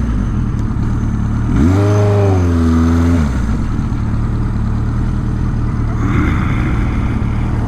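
1983 Suzuki GS1100E's inline-four engine revving up about one and a half seconds in, holding for a second or so and dropping back, then running low and steady.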